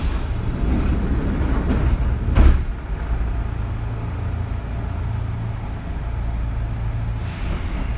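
Interior of a Kintetsu 3200 series electric train car at a standstill: a steady low hum of the car's equipment, with one sharp loud thump about two and a half seconds in.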